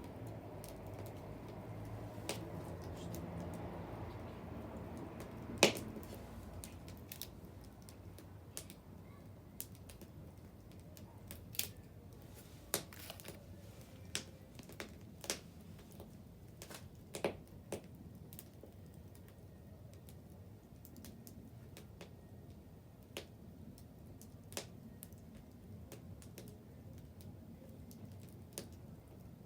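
Wood bonfire crackling: irregular sharp pops and snaps, one much louder pop about six seconds in, over a low rumble that fades over the first few seconds.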